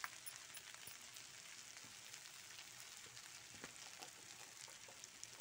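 Potatoes and peas frying in oil in a kadhai: a faint, steady sizzle with small scattered crackles, and one sharp tick right at the start.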